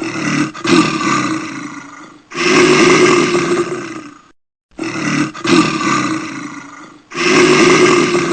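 A large animal roaring: a series of loud calls, a new one about every two and a half seconds, each fading away and then cut off sharply.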